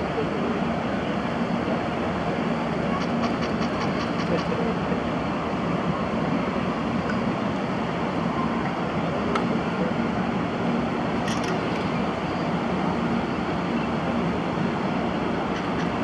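500 Series Shinkansen trainset moving slowly over the depot tracks: a steady low rumble with a hum.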